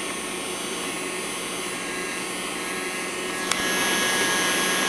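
Henry mini desk vacuum's small battery motor running steadily with a whirring whine, now on fresh batteries that give it a proper hoover sound. About three and a half seconds in there is a brief click and it runs louder.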